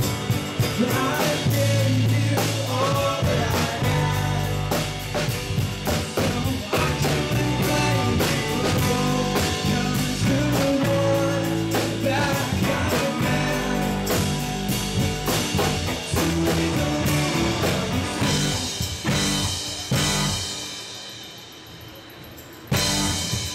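Live rock band playing with drum kit, guitars and singing. Near the end the band drops out into a short fading ring, then crashes back in at full volume.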